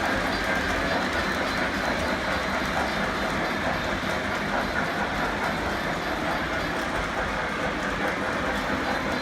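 Model train running steadily along the track: a continuous, even rumble of its motor and wheels.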